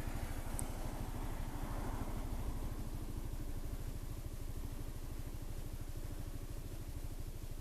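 Honda SH300i scooter's single-cylinder engine idling steadily with an even, fast low pulse.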